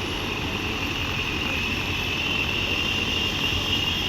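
Helicopter running on the ground before take-off: a steady engine and rotor rumble with a high whine that slowly rises in pitch.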